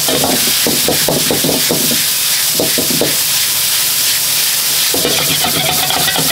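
Food stir-frying in a hot pan with a steady loud sizzle, while a metal utensil scrapes and clatters against the pan in spells: for the first two seconds, again around three seconds in, and from about five seconds on.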